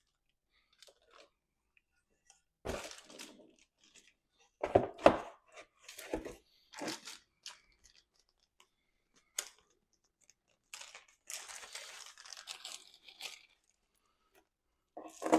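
Irregular handling noises of hand work on engine parts: scattered rustling and scraping with a few sharp knocks, then a longer rustling, scraping stretch in the second half.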